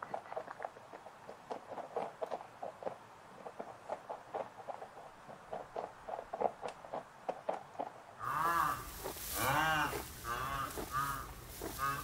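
Rhinoceros calling: a series of about four moaning calls, each rising and falling in pitch, starting about eight seconds in. Before that there are only faint scattered short clicks.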